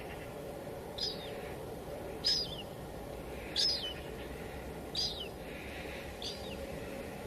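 Steady drizzle hiss, with a bird giving five short, high calls that each drop in pitch, about one every second and a quarter.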